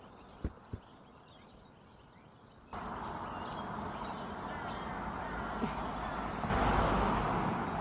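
Two quick knocks about half a second in, then from almost three seconds in a steady outdoor noise with birds chirping, growing louder near the end.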